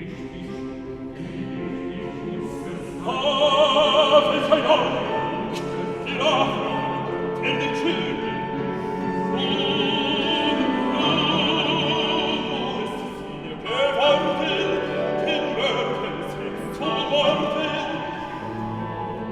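Operatic singing: a trained classical voice with wide vibrato over instrumental accompaniment. The accompaniment plays alone at first, and the voice comes in about three seconds in.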